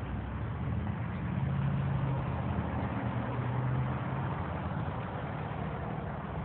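A motor engine running steadily with a low hum that swells a little partway through, over a steady noise.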